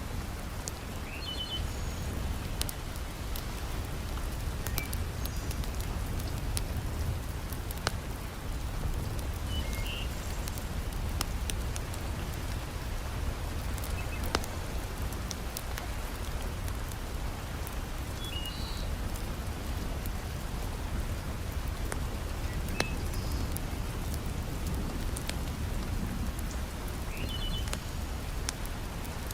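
Heavy rain falling steadily with a deep, low rumble, mixed with a crackling wood fire: sharp clicks and pops scattered throughout. A few short, high chirps come through now and then.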